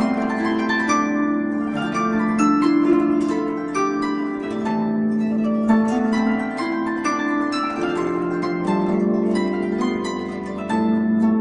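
Concert harp playing an instrumental passage of a Kurdish song: a quick run of plucked notes that ring on and overlap.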